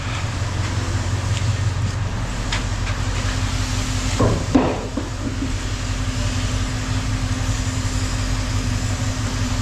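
A steady, low engine drone, typical of an idling vehicle, with a brief clatter about four seconds in.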